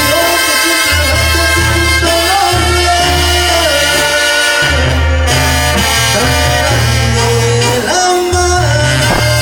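Mexican banda music: a brass band playing, with a low bass line that steps from note to note about once a second under held and sliding melody notes.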